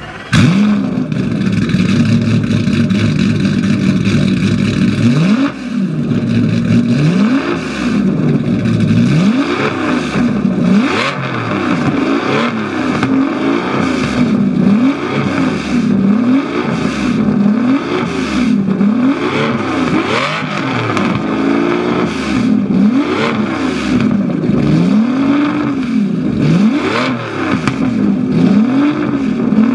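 Aston Martin V12 Zagato's V12 engine starting with a sharp flare and idling for a few seconds, then blipped again and again, the revs rising and falling about every one and a half seconds.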